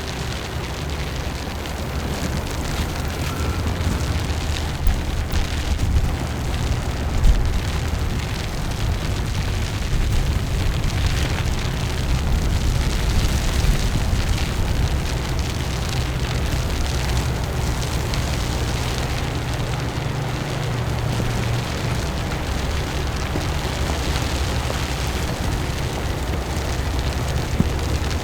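Steady low rumble and hiss of outdoor city ambience on a snowy street, with a few faint knocks about five and seven seconds in.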